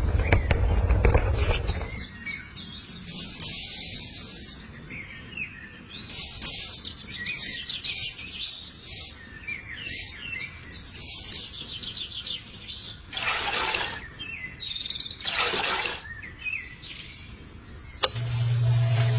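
Small birds chirping and calling in many short, high notes, with two longer swishing noises in the second half. A loud low rumble fades out about two seconds in, and a steady low hum starts near the end.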